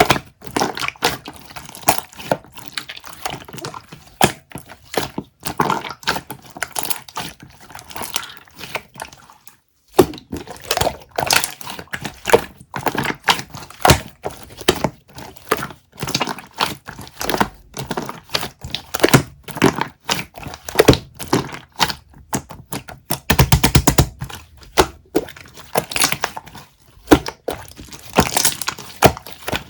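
A close, steady run of taps, clicks and crackles, with a short break in the sound just before ten seconds in and a fast rattle of clicks about two-thirds of the way through.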